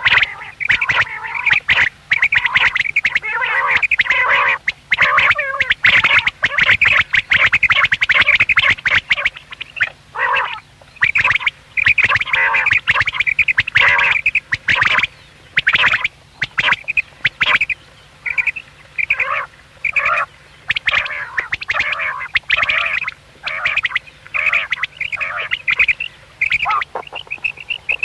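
Common quail calling: dense, overlapping calls for about the first half, then short calls repeated in quick succession.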